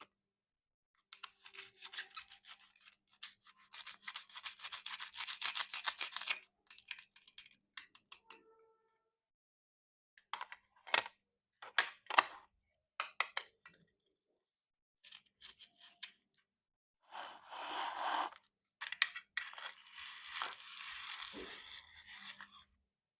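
Plastic toy fruit being cut. A few seconds of rapid crackling scraping, then a handful of separate sharp clicks and taps, then another stretch of scraping near the end.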